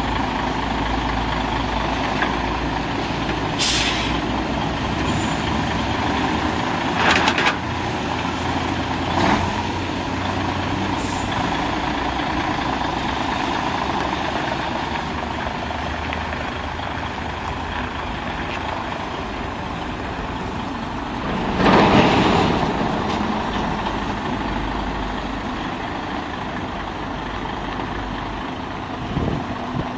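Isuzu 6WG1 inline-six diesel truck engine running steadily at idle, with a few short sharp sounds over it, the loudest about 22 seconds in.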